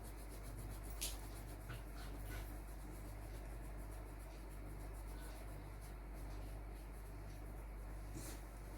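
Faint rubbing strokes of a tool working on the surface of a parrot painting, over a steady low electrical hum. A sharp click sounds about a second in and again near the end.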